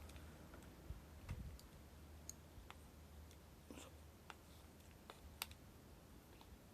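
Faint, irregular crackles and small pops of a wood campfire, about a dozen scattered sharp clicks over near silence.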